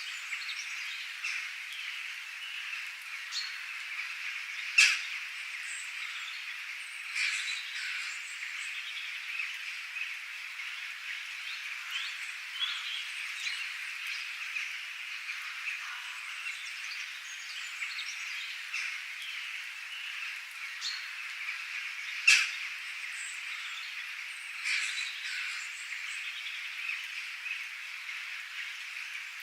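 Outdoor animal chorus of frogs and birds: a steady high chorus with many short calls over it, and two sharp, loud calls, one about five seconds in and one about twenty-two seconds in.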